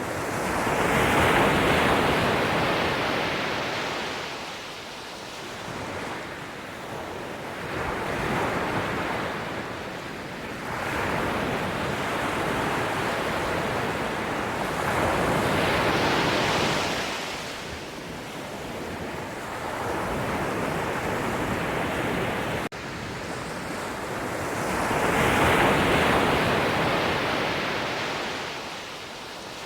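Sea waves breaking and washing in, about six surges that each swell and fade over a few seconds. The loudest come about a second in and again near the end.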